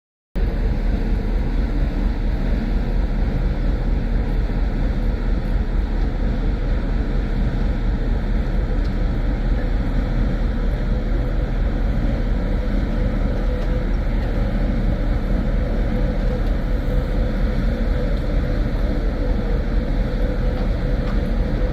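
Steady low rumble of wind on the microphone and the drone of a cruise ship under way, starting abruptly after a brief silence.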